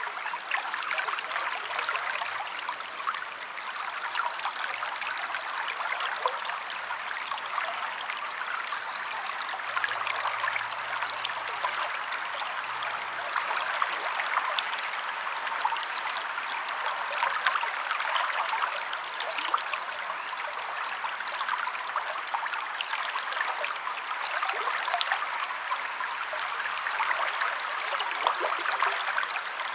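River water flowing and babbling steadily, splashing with a dense fine crackle. A few brief, faint, high bird chirps come through now and then.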